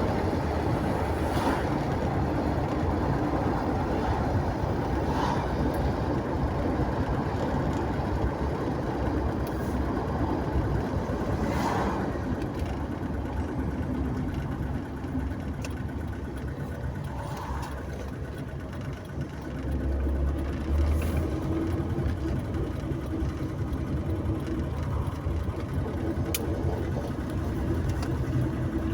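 A car driving along a road: steady engine and tyre rumble, easing off slightly about two-thirds through and then picking up again.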